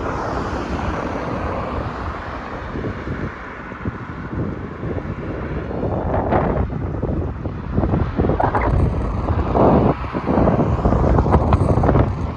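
Wind buffeting the microphone: a steady rumble that grows gustier and louder in the second half.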